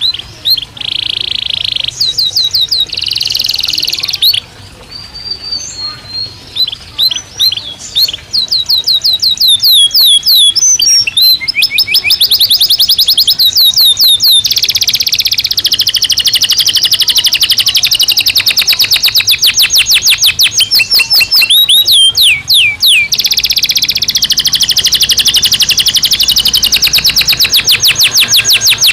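Domestic canary singing in its cage: a loud song of fast trills, rapid runs of repeated sweeping notes. It comes in short phrases with gaps at first, then runs almost without a break from about eight seconds in.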